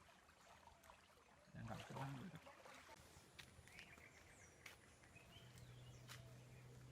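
Near silence: faint outdoor ambience with a few faint bird chirps, a brief low sound about a second and a half in, and a faint steady hum in the second half.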